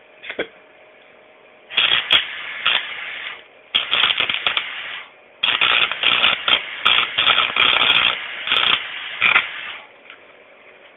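Electric arc welder crackling and sizzling in three welding runs: one of about a second and a half, a shorter one of about a second, then a longer run of about four seconds.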